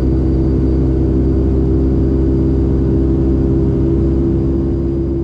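Steady cabin drone of a Boeing 757-200 in flight: jet engines and airflow, with a hum of several steady low tones and a faint high whine.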